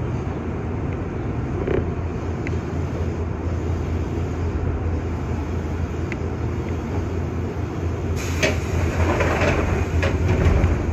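Steady low hum inside a Nankai 6000 series electric train, with a few light clicks. About eight seconds in comes a couple of seconds of rattling clatter.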